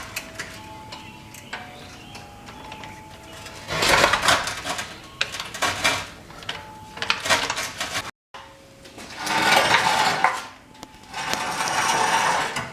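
Metal clanks and clatter of tools and parts while a car's front K-member is unbolted and taken down, with several louder noisy bursts lasting a second or two.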